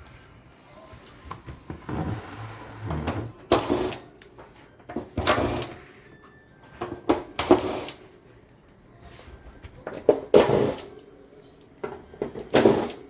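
Parts of a stand air conditioner's casing being handled during disassembly: about five short bursts of clattering and scraping, roughly two seconds apart.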